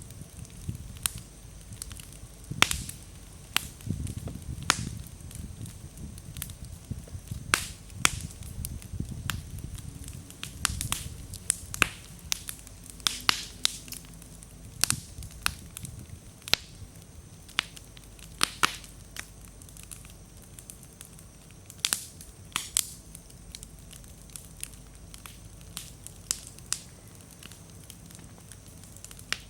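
Campfire of slightly damp firewood crackling, with frequent sharp irregular pops as the wood bursts and throws sparks, over a low flame rumble that is stronger in the first half.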